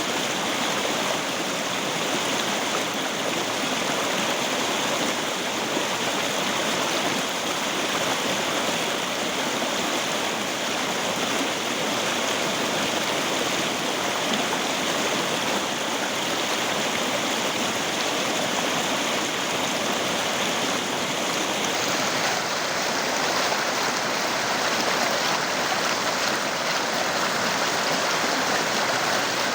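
River water flowing, a steady, even rushing with no breaks; its brighter upper hiss shifts slightly about three-quarters of the way through.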